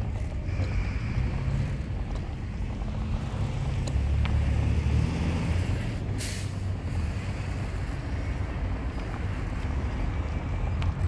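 A road vehicle on the move: steady low engine and road rumble, with a short burst of hiss about six seconds in.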